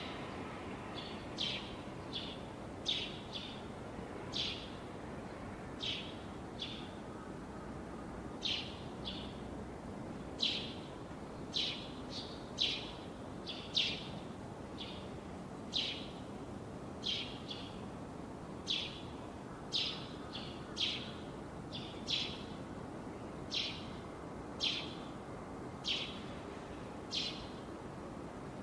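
A bird repeating a short, high chirp about once a second, spaced a little unevenly, over a steady background hiss.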